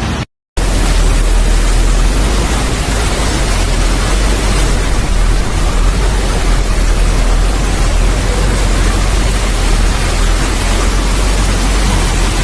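Heavy rain pouring steadily: a loud, even hiss with a deep rumble underneath. The sound drops out completely for a moment just after the start, then resumes unchanged.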